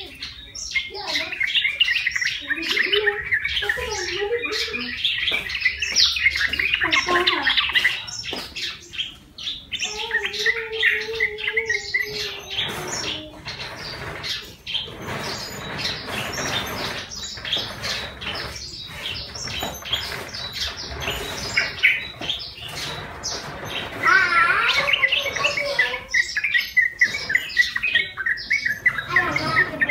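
Captive yellow-vented bulbul (trucukan) calling: a long run of quick, bubbly chattering notes, pausing now and then before starting up again, with sharp clicks mixed in.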